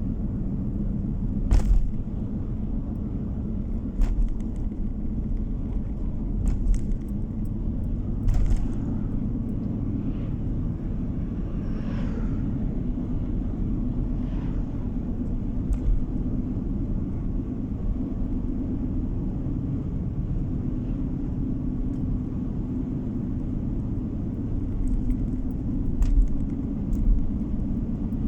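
Steady low road rumble of a moving car heard from inside the cabin, with short sharp knocks every few seconds.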